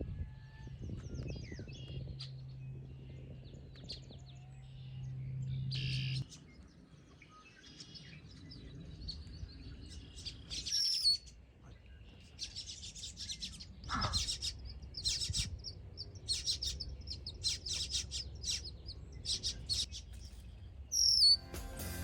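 Wild birds chirping and calling in many short, high calls that come in clusters, with a louder sharp call about eleven seconds in and another near the end. A low steady hum sounds for the first six seconds or so.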